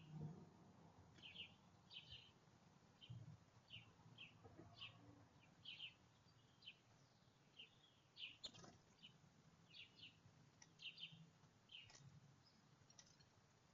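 Faint, short, high chirps of small songbirds, one or two a second at irregular spacing.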